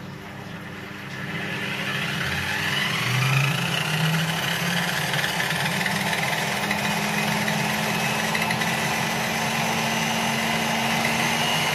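Homemade table saw's motor and circular blade running at under half power through a dimmer, with its sound-proofing box open. It spins up over the first few seconds with a rising whine, then runs steadily with a high whine over a low hum; very noisy, around 80 decibels.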